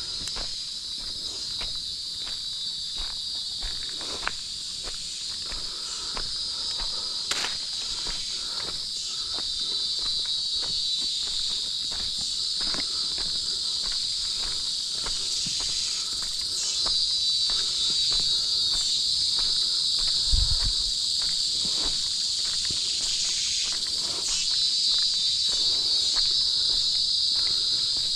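A steady, high-pitched chorus of forest insects that grows gradually louder, with footsteps on a trail.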